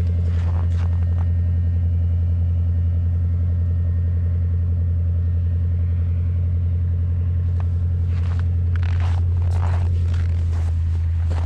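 2008 Ford Crown Victoria P71's 4.6-litre V8 idling steadily with a deep hum just after a cold start at about −30 °F, with a faint high whine from the power steering pump, a sign of the cold. A few short scuffing noises come in near the end.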